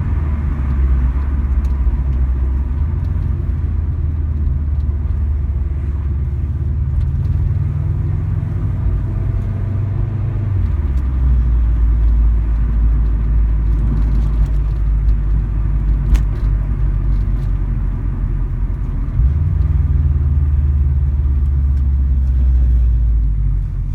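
Subaru WRX STI A-line's turbocharged flat-four running through a BLITZ NUR-SPEC VSR Quad aftermarket exhaust, with the off-beat boxer rumble that comes from its unequal-length exhaust manifold, as the car drives under light acceleration. The engine note drops to a lower pitch about ten seconds in and rises again shortly before twenty seconds.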